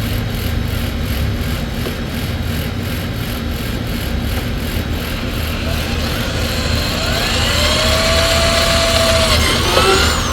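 Power drill with a 3/16-inch bit drilling a hole through a motorcycle tour pack, with a steady motor hum; in the second half a whine glides up and down in pitch as the bit cuts through.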